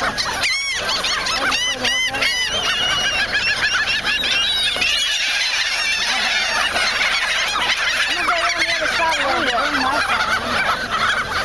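A flock of gulls calling all at once, many overlapping squawks and cries, with a few louder calls in the first couple of seconds.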